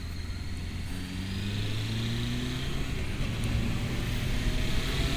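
1997 Honda Fireblade CBR900RR's inline-four engine pulling away under way, its pitch rising gradually as it gathers speed, with wind noise building.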